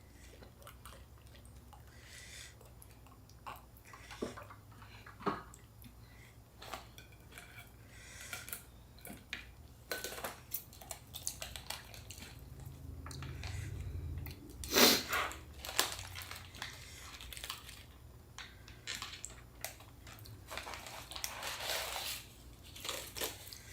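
Chewing and biting into fresh rice-paper spring rolls filled with lettuce, cucumber, bean sprouts, herbs and boiled shrimp, with scattered small clicks and clinks of dishes. There is one louder knock about fifteen seconds in.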